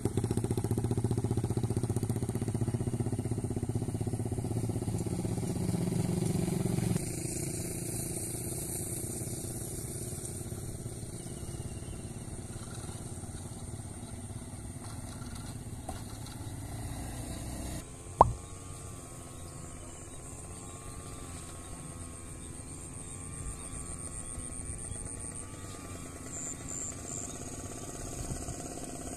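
A small engine running, steady and then wavering slightly in pitch. The sound changes abruptly about 7 and 18 seconds in, with a sharp click at the second change.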